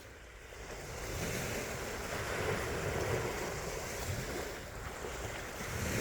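Lake waves washing against the shore, a steady rushing wash that swells after the first second and eases again.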